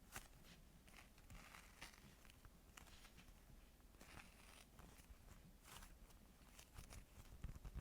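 Faint, scattered crinkling and soft crackles of hands handling and squeezing squishy toys, with short rustles every second or so.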